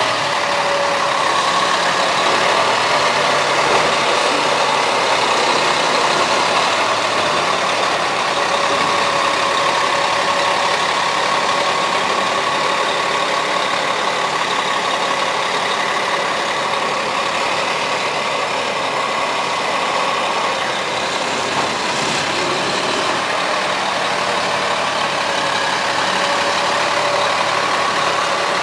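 A stuck truck's engine running steadily, close by and loud.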